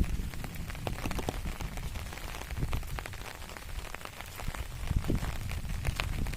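Rain falling on garden plants, with many separate drops tapping close by over a steady patter, under a low rumble.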